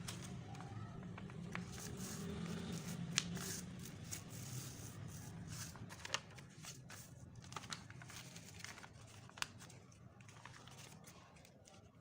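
A sheet of paper being handled and folded: crinkling with scattered sharp crackles and snaps, a few standing out, over a steady low hum. It grows quieter toward the end.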